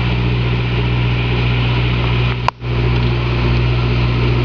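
Tour boat's engine running with a steady low drone. A sharp click and a momentary dropout come about halfway through.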